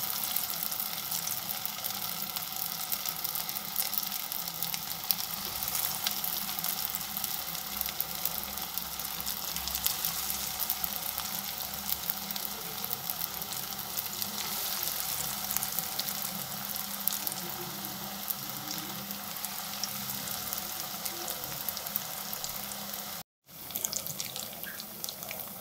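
Carrot cutlets shallow-frying in hot coconut oil in a non-stick pan: a steady sizzling hiss full of fine crackles. It cuts out for a moment near the end.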